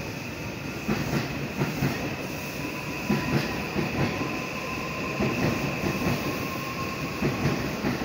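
Seibu 001 series Laview limited express train running past along the platform, wheels clacking over rail joints under a steady rumble with a constant high whine.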